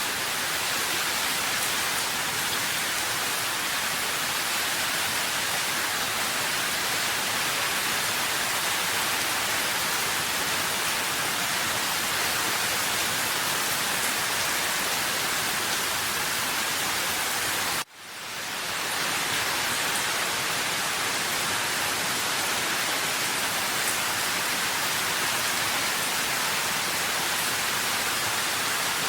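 Steady rain, an even dense hiss. About eighteen seconds in it cuts out for an instant and fades back in.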